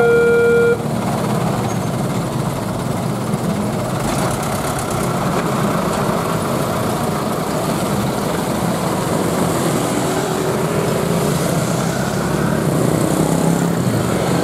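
A two-note signal, switching pitch about once a second, stops under a second in, leaving the steady rumble of road traffic: car and motorcycle engines idling and running.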